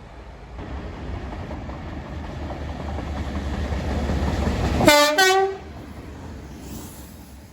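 A train approaching with a rumble that grows louder, then a two-tone horn about five seconds in: a short lower note followed at once by a higher one. The rumble drops away after the horn.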